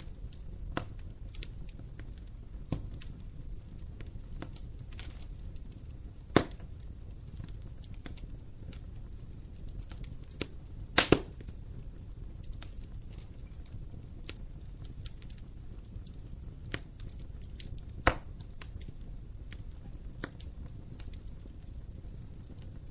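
Wood fire burning in a fireplace: a low steady rumble with scattered crackles and sharp pops, the loudest pops about six seconds in, a close pair about eleven seconds in, and another about eighteen seconds in.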